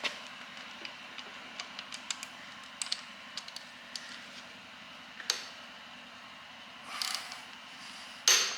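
Metal hand tools clicking and clinking as sockets are fitted to engine head bolts, with a short scrape about seven seconds in and a louder clank near the end.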